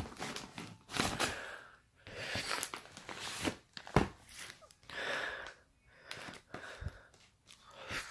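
Fireworks packaging being handled and torn open: irregular rustling and crinkling with a few sharp knocks.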